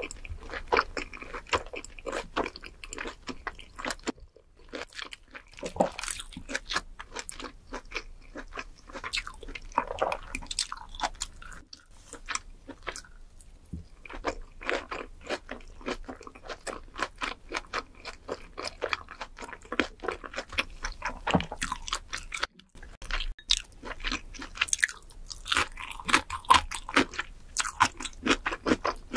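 Close-miked chewing of spicy seafood pasta: a dense run of wet mouth clicks and smacks, with brief pauses between mouthfuls.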